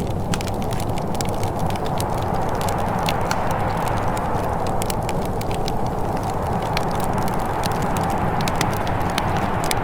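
Wood fire crackling in a fireplace, with many small sharp pops at irregular moments, over a steady low rush of wind that swells slightly in the middle.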